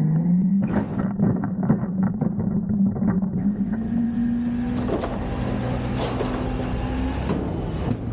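Front-loader garbage truck's diesel engine revving up and holding high to drive the loader hydraulics, its pitch climbing over the first few seconds and dropping near the end, with repeated metal knocks and clanks from the lift arms and container.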